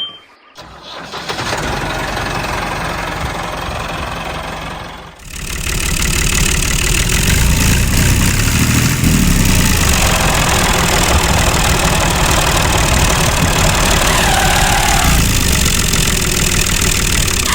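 Tractor engine starting and running with a rapid, even firing beat; it dips briefly about five seconds in, then runs on louder.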